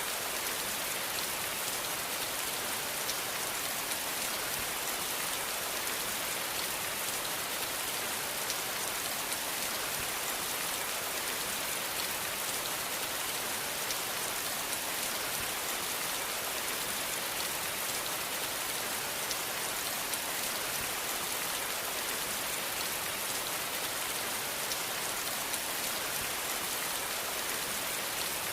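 Steady rain falling, a dense even hiss with fine drop ticks.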